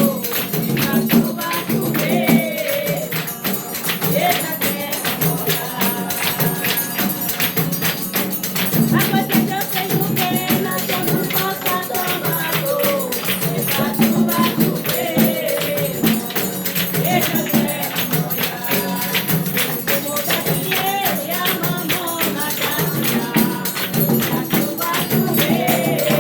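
Samba de roda chula music: voices singing over a fast, steady beat of pandeiro (tambourine) and hand percussion.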